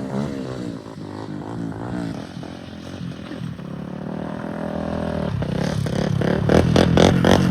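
Single-cylinder four-stroke engine of a Honda 400EX quad revving up and down as it is ridden. It fades as it moves away, then comes back louder near the end.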